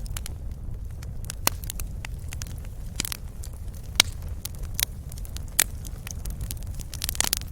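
Wood fire in a fireplace crackling: irregular sharp pops about a second apart over a steady low rumble, with a quick cluster of pops near the end.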